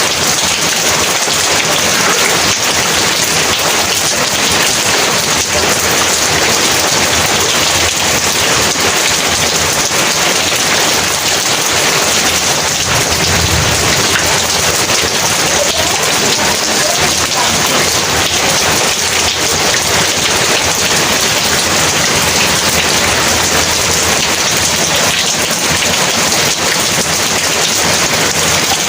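Heavy rain pouring steadily, with a low roll of thunder about halfway through.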